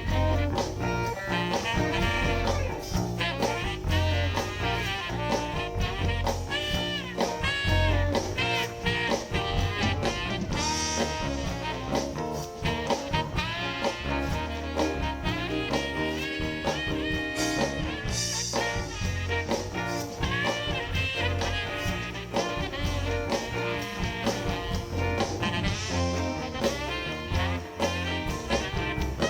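Live soul band playing an instrumental passage: electric guitar and horns over a steady bass and drum beat.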